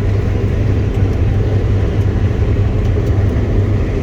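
Claas combine harvester running while harvesting wheat: a steady low engine and machinery drone heard from inside the cab.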